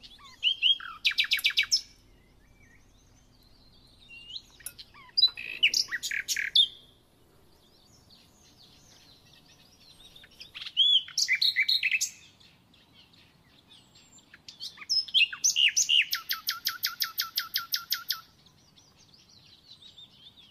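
A songbird singing in four separate phrases of quick chirps and trills, each a second or two long with pauses between. The last and longest phrase, near the end, is a rapid even trill.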